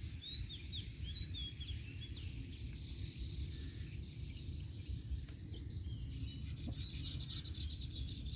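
Several birds chirping and calling in short, quick notes, over a low steady rumble.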